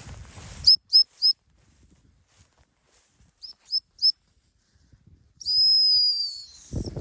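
Dog-training whistle blown as commands to a running bird dog: three quick pips, three more pips about three seconds later, then one long blast that dips slightly in pitch as it ends.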